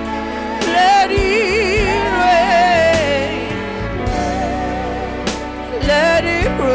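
Gospel worship singing: a woman's high voice holds long, wavering notes with heavy vibrato over a band of sustained keyboard chords, bass and occasional drum hits.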